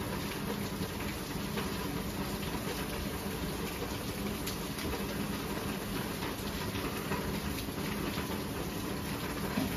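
Steady rain falling, a constant hiss with many small drop ticks through it.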